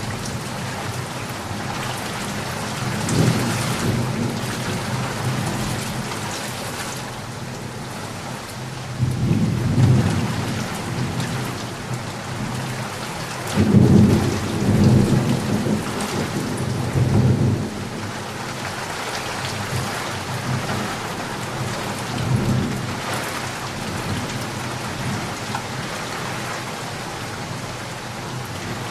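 Steady heavy rain with thunder rumbling several times. The longest and loudest roll comes about halfway through.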